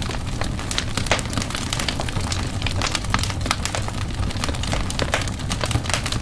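Fire burning in a fireplace, crackling with frequent sharp pops over a low steady rumble.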